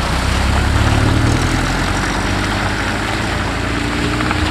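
A car engine running steadily at a low pitch, with a dense rush of noise over it.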